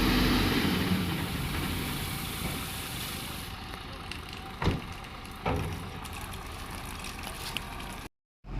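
Fire truck engine running, with a hissing noise over it; the sound fades over the first few seconds. Two sharp knocks come a little under a second apart midway, and the sound cuts off suddenly near the end.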